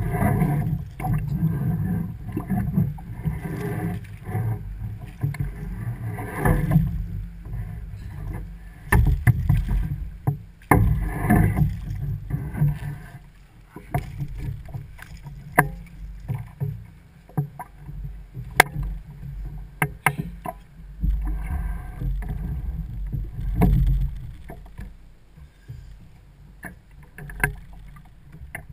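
Sounds of a fishing kayak on the water, recorded through a sealed action-camera housing: uneven low sloshing and rumble of water and wind, with scattered sharp knocks and clicks against the hull.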